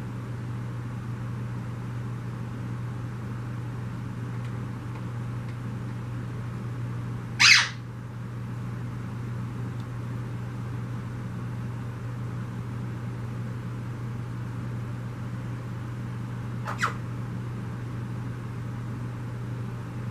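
Steady low hum and splashing of a submerged water pump throwing up a jet of water. A bird gives a loud, short harsh call about seven seconds in and a fainter one near the end.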